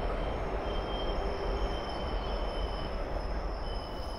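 Indian Railways mail train hauled by a WAP-4 electric locomotive approaching on the line: a steady low rumble with a thin high squeal that comes and goes.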